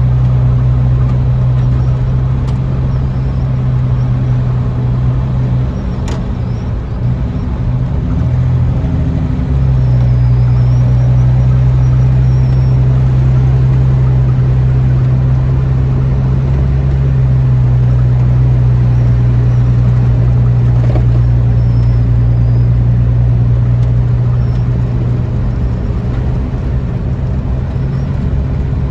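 A pickup's 4.3-litre V6 engine running steadily while driving. Its steady note breaks up and dips briefly about six to nine seconds in, then settles back to a steady drone.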